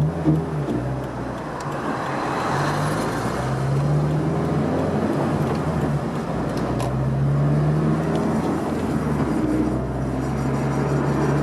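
Toyota 86 (ZN6) flat-four engine through an HKS aftermarket exhaust, driving at moderate revs with the engine note rising and easing off a few times over road noise.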